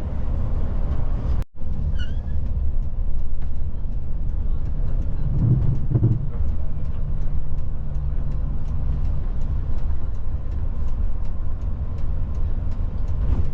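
Steady low rumble of a large vehicle's engine running, with faint scattered ticks and rattles. The sound cuts out for an instant about one and a half seconds in.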